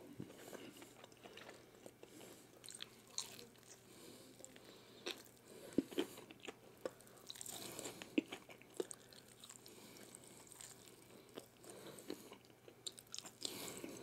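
A person chewing a crispy fried chicken wing: irregular crunches of the coating, with the loudest few around six and eight seconds in.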